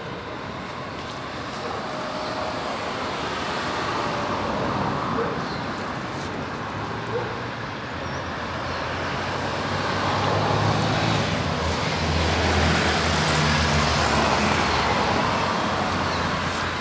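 Road traffic noise: a steady rush of passing vehicles, with a motor vehicle's engine hum growing louder about two-thirds of the way through.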